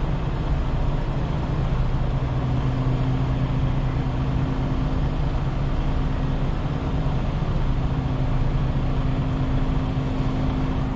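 Semi truck's diesel engine running steadily, a low even drone with no change in speed.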